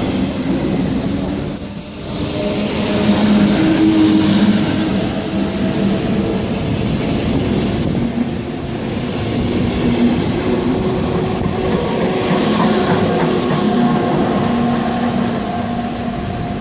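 Train running through the station, wheels squealing on the rails, with a brief high-pitched squeal about a second in.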